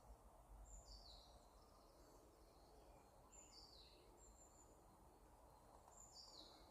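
Faint forest ambience with a bird singing the same short phrase three times, about every two and a half seconds, each a high note falling away, over a steady low background hiss.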